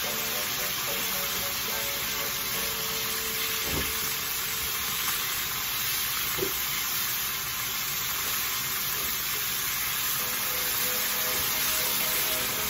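Liver slices sizzling in oil in a nonstick pan as they are stirred with wooden chopsticks, a steady hiss with a couple of short knocks near the middle.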